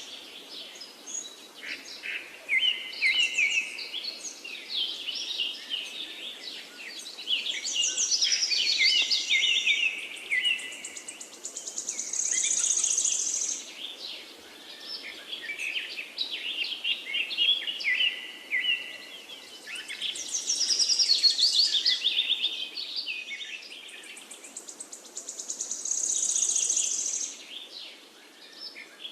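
Forest birdsong: many birds chirping and trilling at once, with a high buzzing insect call swelling and fading every six to eight seconds.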